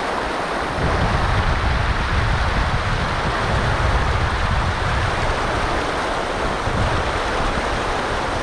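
Steady rush of a river's current, with wind buffeting the microphone in low, uneven gusts.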